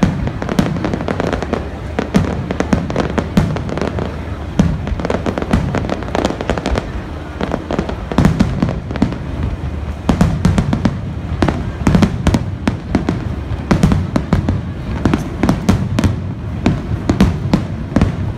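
Aerial firework shells bursting in quick succession, a dense barrage of booms and crackling reports several times a second throughout.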